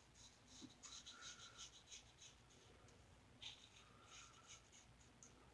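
Faint scraping of a 1901 New Gem single-edge safety razor cutting stubble in short strokes, coming in quick runs of several strokes with short pauses.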